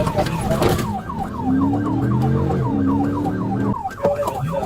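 Police car siren on a fast yelp, about five falling sweeps a second, heard from the pursuing cruiser. Road and wind noise fill the first second, then an engine note rises under the siren and cuts off sharply about three-quarters of the way through.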